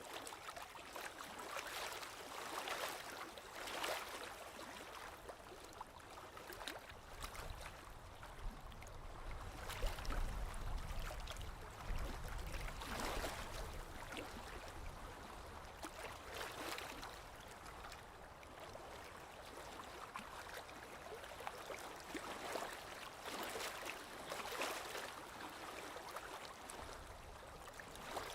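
Small lake waves lapping against the shore, with irregular splashes every second or two and a low rumble for a few seconds in the middle.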